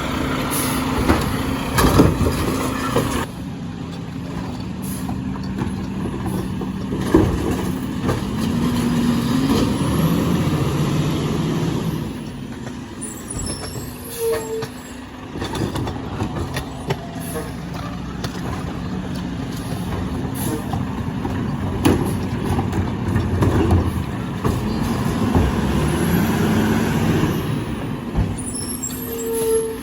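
Garbage truck running, its engine rising and falling in pitch twice with scattered clanks and knocks.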